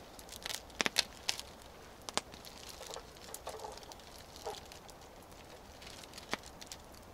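Campfire burning with scattered sharp pops and crackles from the wood, a quick cluster about a second in, then single pops.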